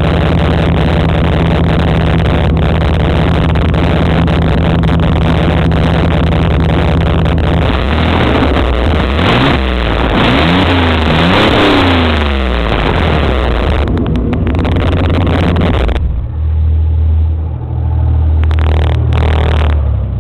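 1993 Chevrolet S10 Blazer's 4.3-litre V6 running through a dual straight-pipe exhaust with the catalytic converter still on: idling steadily, then revved up and down a few times about eight seconds in, then settling back to idle.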